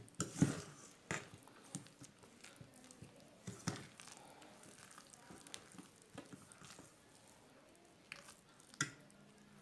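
Spoon mixing thick cake batter in a bowl: soft squelching with scattered taps and scrapes against the bowl, the loudest about half a second in, near four seconds and near the end.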